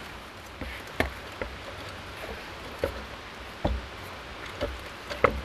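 Irregular knocks and taps, about half a dozen, from mixing and kneading flour dough in a bowl.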